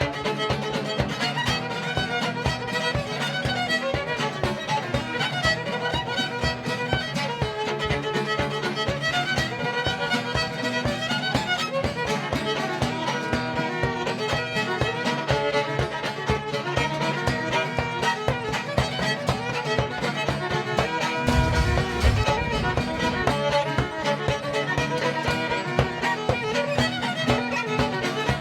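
Fiddle playing a lively tune over a steady strummed string accompaniment with an even beat. About three-quarters of the way through there is a brief low rumble, like a bump on the microphone.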